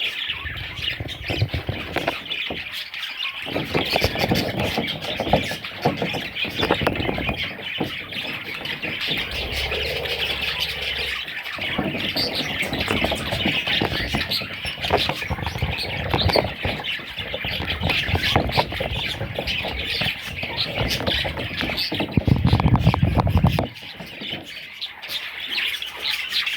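A flock of pet budgerigars chattering and squawking without pause, with many quick clicks. A loud low rumble lasts about a second and a half near the end.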